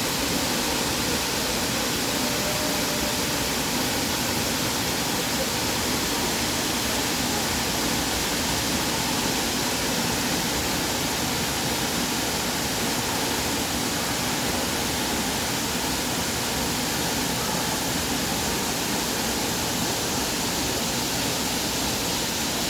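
Waterfall inside a natural cave, the water falling with a steady, unbroken rush.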